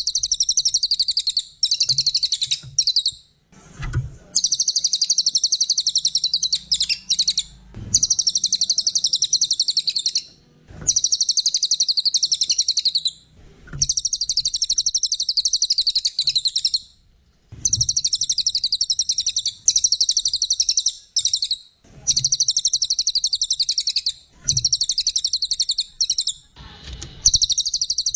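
A small songbird singing a high, very rapid trilling song in long phrases of about two to three seconds, repeated over and over with short pauses between them. Faint low thumps come now and then in the gaps.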